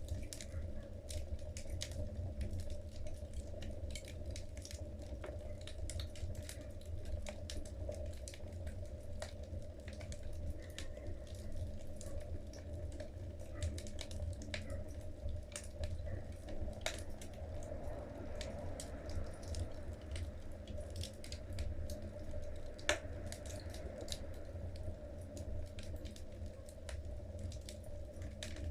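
Logs burning in a fireplace, crackling with many small irregular pops over a low steady rumble, and one louder pop about three-quarters of the way through.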